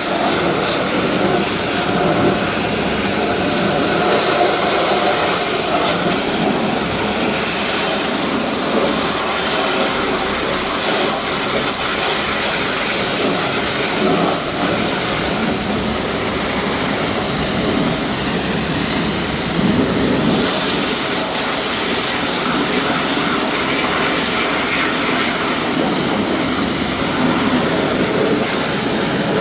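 Steady, loud rushing noise from car-wash equipment, such as a pressure washer spraying or an air blower, running without a break.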